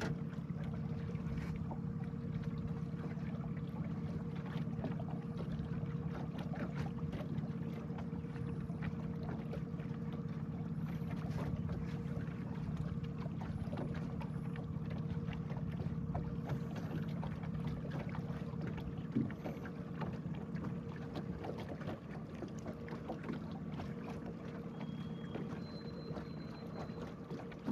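A boat's motor running at a steady speed, a constant low hum, with small splashes and ticks of water against the hull. Two brief high chirps come near the end.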